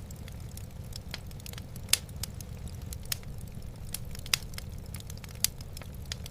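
Wood fire burning in a fireplace, crackling with irregular sharp pops, the loudest about two, four and five seconds in, over a steady low rumble.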